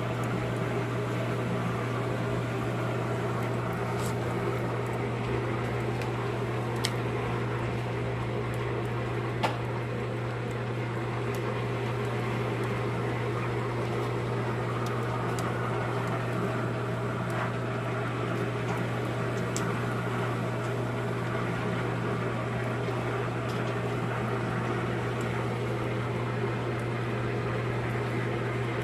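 A small electric motor running steadily with a low, even hum, with a few faint clicks over it.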